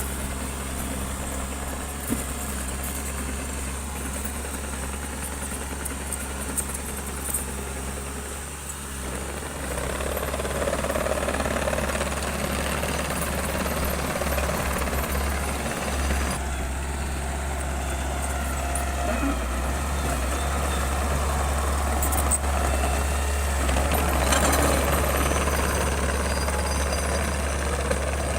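Bulldozer's diesel engine running steadily at work, growing louder and rougher about ten seconds in, with a few sharp clanks.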